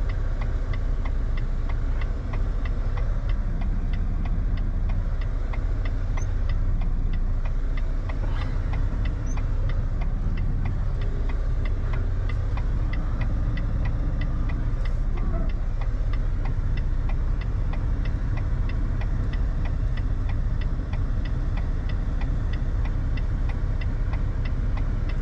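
Semi-truck diesel engine running at low speed, heard from inside the cab, with a steady low hum and a fast, even ticking throughout.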